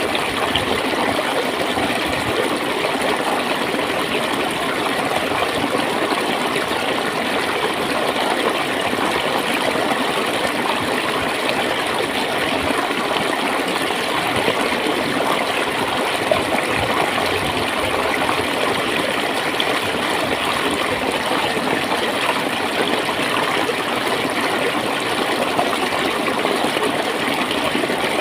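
Clear flowing water gurgling, a steady, unbroken rush.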